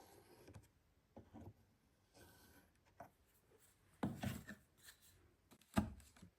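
Faint, scattered rubbing and light knocks of a bird nest box's parts being handled and pressed together during gluing, with a sharper knock near the end.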